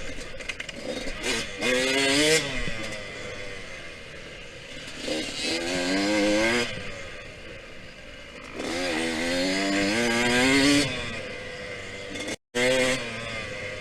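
Yamaha YZ125X's two-stroke single-cylinder engine revving hard and backing off as the bike is ridden, with three rising pulls up in pitch and drops between. The audio cuts out for an instant near the end.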